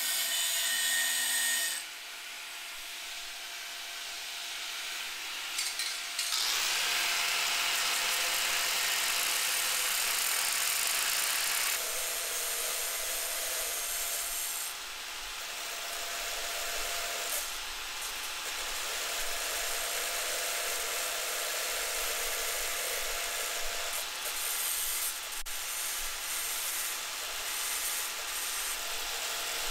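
A power tool runs steadily while working material with a continuous rasping, grinding noise that grows louder and brighter as it bites harder, strongest about a third of the way in.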